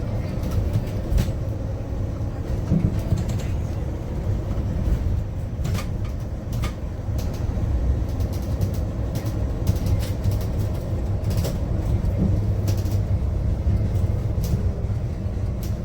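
Inside a Yutong U12 battery-electric city bus on the move: a steady low road rumble, with scattered short clicks and rattles from the cabin.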